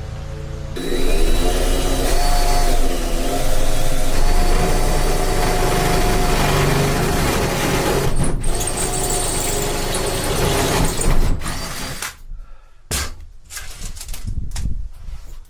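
A power tool running steadily for about eleven seconds, then stopping, followed by a few sharp knocks.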